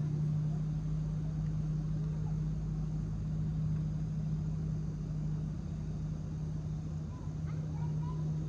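An engine running at a steady speed, a constant low hum with no change in pitch.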